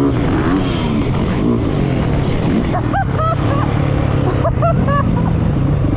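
Dirt bike engine running, its pitch wavering then holding at a steady drone, with a few short high chirps about halfway through and again near the end.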